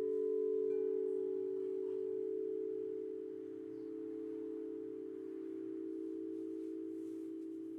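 Singing bowls ringing with a steady, sustained hum of several tones blended together. A few higher, chime-like tones sound near the start and die away within a couple of seconds.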